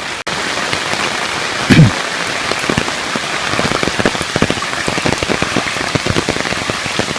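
Heavy rain falling steadily, with many separate drops striking close by, more often after about three seconds. A brief low sound that falls in pitch, about two seconds in, is the loudest moment.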